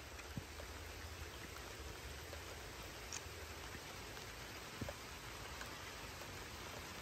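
Light rain falling: a soft, even hiss with a few faint taps of drops.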